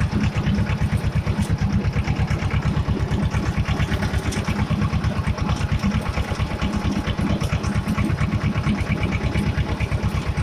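Escort 335 tractor's three-cylinder diesel engine running steadily under way, a rapid, even chugging throb.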